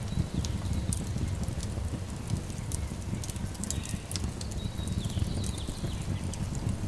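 Wood fire crackling, with irregular sharp pops over a steady low rumble. Faint high bird chirps come in around the middle.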